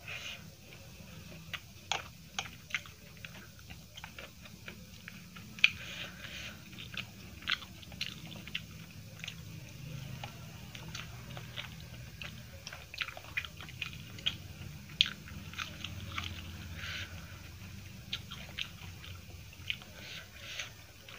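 Close-miked chewing and biting of rice and fried egg eaten by hand, with many short, sharp wet mouth clicks scattered irregularly, over a low steady hum.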